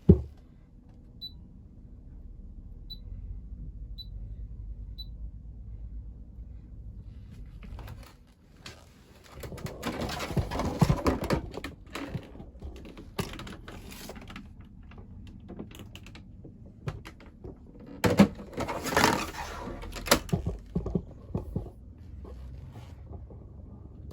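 Four short high beeps over a low steady hum, then two spells of clattering and knocking, like hands working on an appliance.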